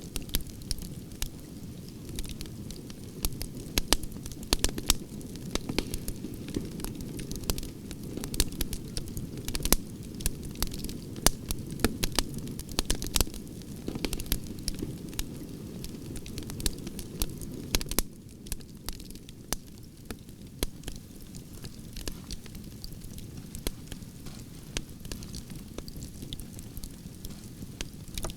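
Campfire of burning branches crackling, with frequent sharp pops and snaps over a steady low rumble of flames; the pops grow fewer and softer about two-thirds of the way through.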